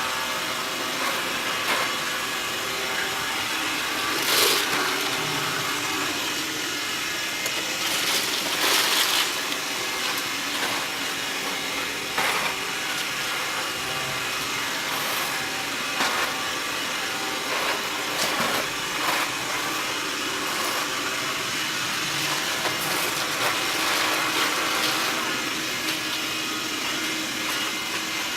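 A robot vacuum cleaner running with a steady hum of its motor and suction, and a few brief sharp clicks or knocks, the loudest about 4, 8–9 and 12 seconds in.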